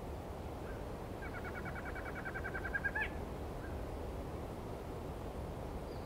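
A night bird's call in a tropical forest: a rapid even trill of about twenty notes, about ten a second, that starts about a second in and ends in a short upward-flicked note about three seconds in. It sits over a steady low rush of background noise.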